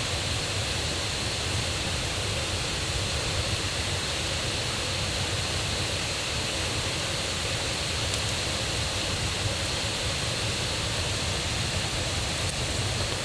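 Rain-swollen river water rushing steadily and loudly in a continuous even wash; the river is running high after the previous day's rain.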